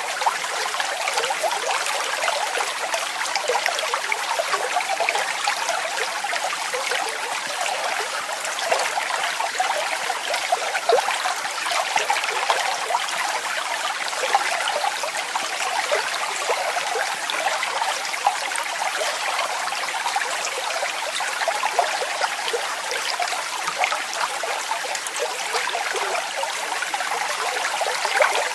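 Waterfall: a steady rush of falling water with continual small splashes and gurgles, light on deep rumble and unchanging throughout.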